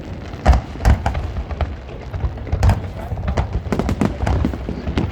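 Fireworks bursting overhead: a rapid, irregular series of booms and cracks over a continuous low rumble, the two loudest about half a second and a second in.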